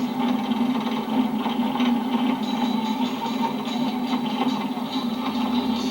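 Steady road and engine noise inside a moving car's cabin, a constant low hum with light rattles and ticks scattered through it.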